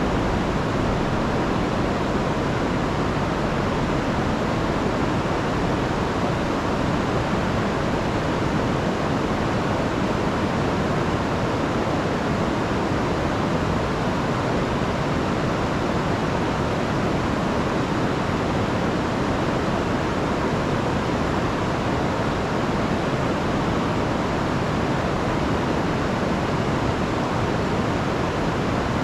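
River running high and fast after a week of rain, a steady, unbroken rush of water.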